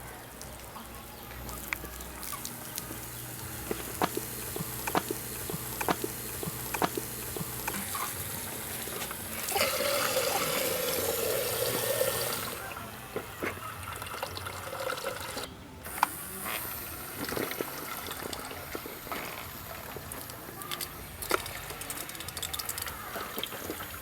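Water splashing and trickling, with scattered knocks and clatters throughout and a louder rush of water for about three seconds near the middle.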